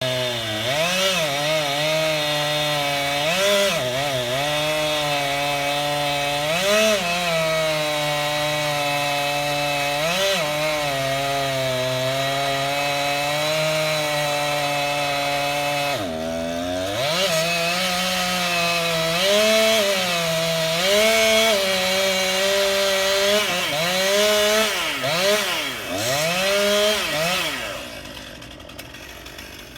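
Two-stroke chainsaw running at high revs while cutting, its engine pitch repeatedly sagging under load in the wood and picking back up. Near the end the saw's sound falls away, leaving a faint hiss.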